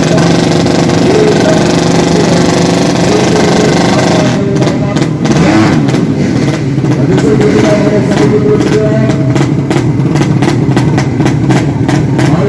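Drag-racing motorcycle engines running loud and revving hard. From about four seconds in, the sound turns choppy with rapid repeated throttle blips.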